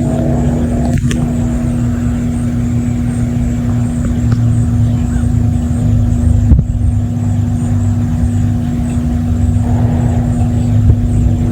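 Unexplained outdoor sky sound of the kind reported as 'trumpets in the sky': a steady low drone holding one tone over a deep rumble. Brief sharp clicks come about a second in and again past the middle.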